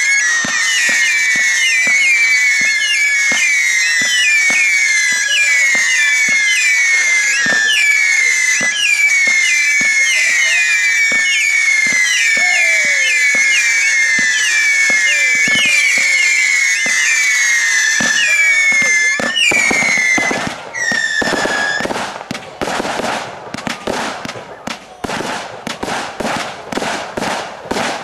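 Fireworks display: a rapid string of whistling fireworks, each whistle rising and then falling in pitch, overlapping with many bangs. After about twenty seconds the whistles stop and a dense crackling barrage with sharp bangs takes over.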